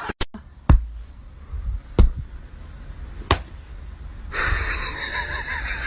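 Three sharp knocks about 1.3 seconds apart over a low rumble, then a steady hiss with a few faint, short rising-and-falling pitched sounds.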